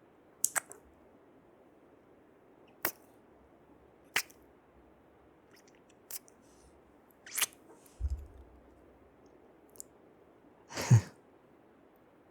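Close-mic kissing sounds: a series of short lip smacks a second or two apart, with a longer, louder breath about eleven seconds in.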